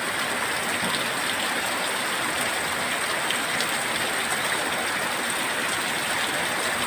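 Very heavy rain pouring down in a steady, even hiss, with a few sharper drop ticks here and there.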